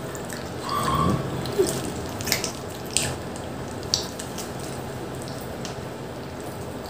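Mouth sounds of pizza being eaten: wet chewing and smacking, with several sharp clicks between about one and four seconds in.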